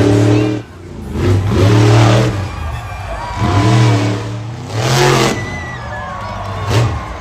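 Monster truck engine revving hard in repeated bursts, each one rising and falling in pitch.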